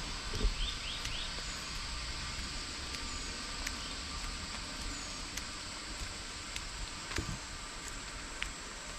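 Steady outdoor hiss of natural ambience, with a few short bird chirps near the start and two soft low thumps, one near the start and one about seven seconds in.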